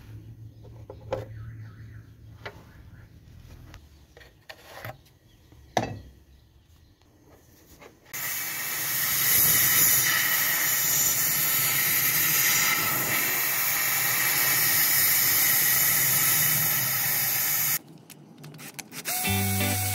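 A few light clicks and knocks, then about halfway through a loud, steady hiss of a pressurised spray or air jet lasting about ten seconds and cutting off suddenly. Guitar music comes in near the end.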